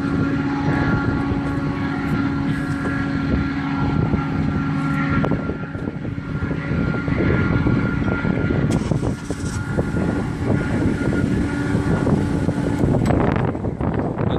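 Metra diesel locomotive and train running by: a steady engine tone with rumbling wheel and rail noise and scattered clicks. The engine's steady tone drops away about 13 seconds in, leaving the rolling noise.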